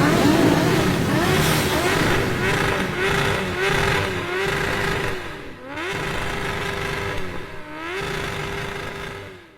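Motorcycle engine running. Its pitch falls and climbs back twice, about five and a half seconds in and again near eight seconds, as the revs drop and pick up. The sound fades out at the end.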